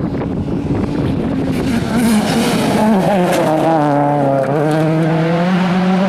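Rally car engine running hard close by, its pitch dropping sharply about three seconds in and again about one and a half seconds later as it brakes and shifts down, then pulling steadily back up.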